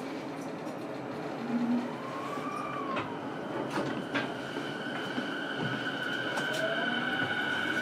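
Running sound inside a JR East E233 series electric train's motor car: a steady rumble with a few sharp knocks about three to four seconds in. After that a whine of several steady tones sets in and grows louder towards the end, with a rising tone near the end.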